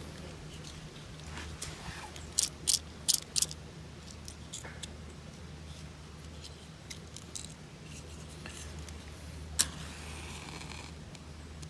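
Four sharp metallic clinks about two and a half seconds in, then scattered lighter ticks and clicks, with a single click and a short hiss near the end, over a low steady hum.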